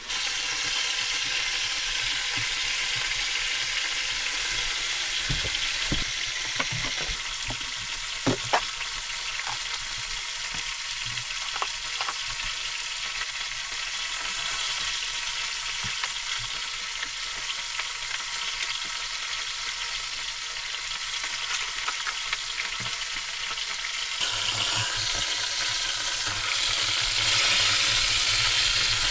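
Food sizzling in a frying pan, with a few sharp clicks of a utensil against the pan now and then. The sizzle grows louder near the end.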